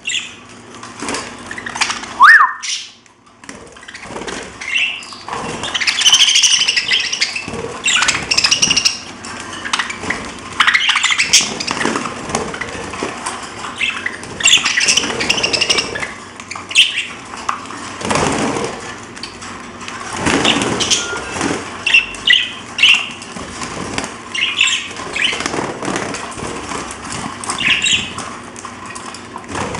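Pet parrots chirping in short, irregular calls, with wing flutters and rustling between them.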